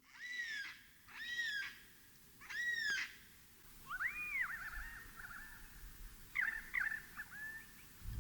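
Wild parrots calling: three separate rising-and-falling squawks, then a run of quicker, warbling chatter.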